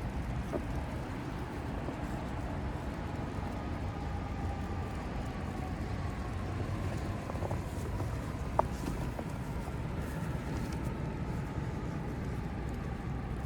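Steady city traffic rumble with a faint drifting engine drone, and one sharp click about eight and a half seconds in.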